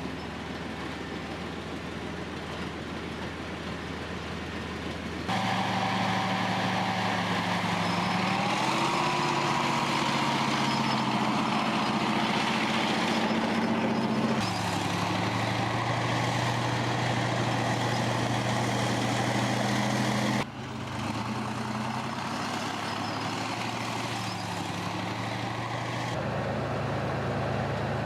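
Heavy diesel engine of a TOS-1A launcher on a T-72 tank chassis running steadily. The engine note changes abruptly several times and rises briefly about eight seconds in.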